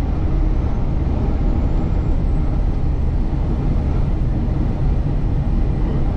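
Semi truck running down the road, a steady low engine drone and road rumble heard from inside the cab.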